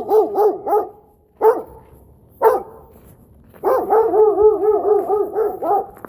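A dog barking: a fast run of barks that ends about a second in, two single barks, then another quick run of about a dozen barks starting near four seconds in.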